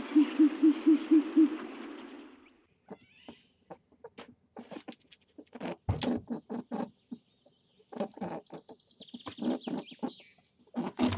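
An animal hooting in a quick run of about eight low notes, then scattered clicks and rustles with a few brief high squeaks.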